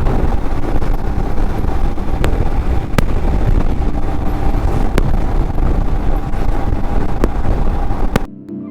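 Royal Enfield Himalayan motorcycle riding on the highway: loud engine rumble mixed with wind rushing over the microphone, with a few sharp clicks. The ride noise cuts off suddenly near the end, giving way to soft ambient music.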